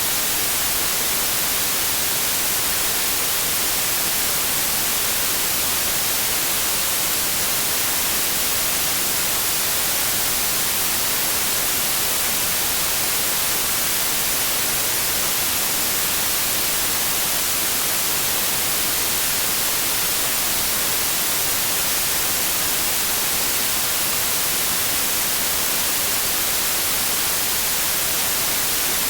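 Synthetic white noise: a steady, even hiss with no change.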